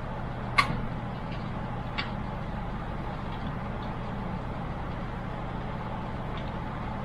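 Steady low background hum. A sharp click about half a second in and a softer one about two seconds in, from cooler hardware being handled and fitted in a PC case.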